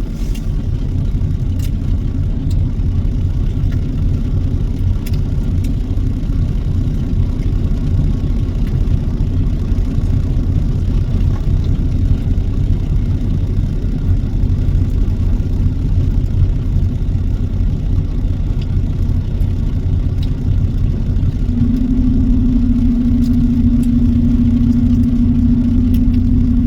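Truck engine and road noise while driving: a continuous low drone, with a steady hum that fades out at the start and comes back about 21 seconds in.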